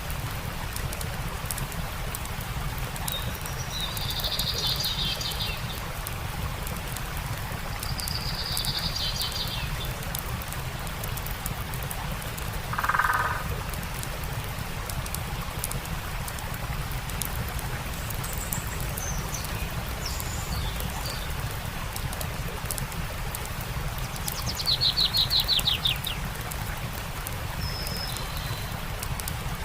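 Steady rush of a flowing stream with faint campfire crackling and wild birds calling over it: trilled phrases about four and eight seconds in, a short lower call about thirteen seconds in, and a loud fast run of repeated notes near the end.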